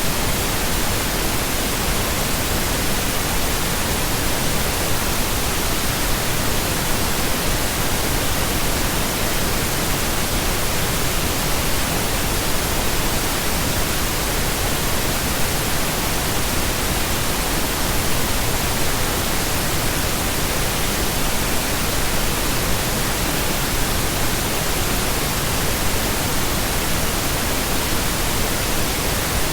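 Continuous synthetic pink noise: a steady, even hiss with no changes, tones or breaks.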